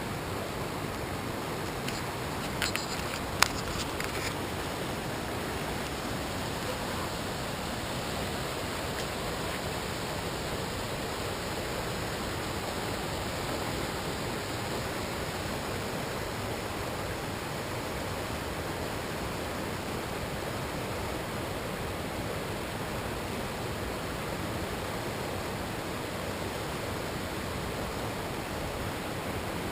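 Small waterfall: water falling and rushing steadily as an even hiss. A few sharp clicks come about three seconds in.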